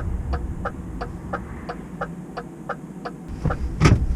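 Hazard-light indicator in a DAF CF truck cab ticking steadily, a tick-tock of about three clicks a second. A low rumble runs underneath, and a louder short knock comes near the end.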